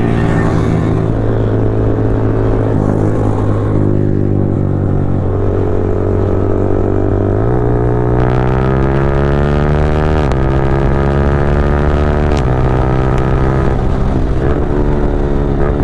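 Single-cylinder motorcycle engine under way. It holds a steady note at first, then accelerates through the gears, its pitch climbing and falling back at each upshift about three times, with a couple of short sharp cracks from the exhaust.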